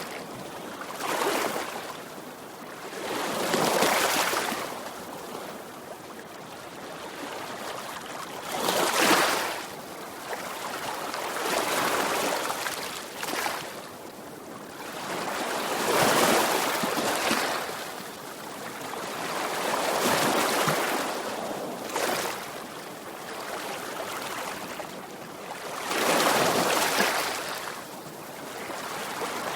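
Sea waves breaking on a shore, each surge of surf swelling and falling back every few seconds, with the wash of water between breaks.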